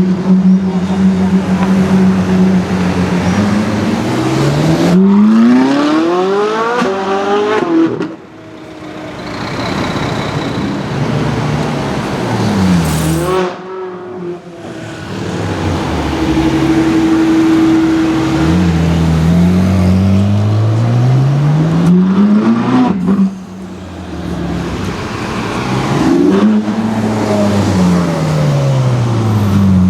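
Novitec-tuned Ferrari 458 Italia V8 with an aftermarket exhaust: a steady idle, then several hard accelerations with the revs climbing, and one quick drive-by near the middle. It is loud throughout.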